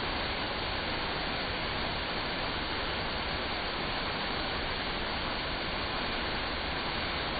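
Steady rushing of an artificial waterfall pouring into a pond, constant in level.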